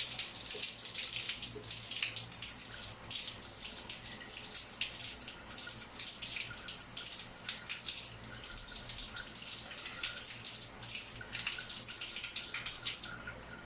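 Water running from a newly fitted shower valve, spraying and splashing in an irregular hiss that thins out near the end.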